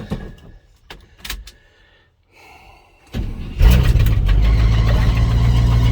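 Two soft clicks, then about three seconds in the 1984 Chevy C10's 305 V8 cranks briefly, catches and settles into steady running on a cold start, with the accessory belts squealing.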